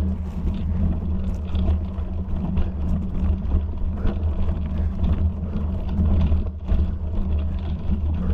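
Steady low rumble with irregular knocks and rattles scattered through it.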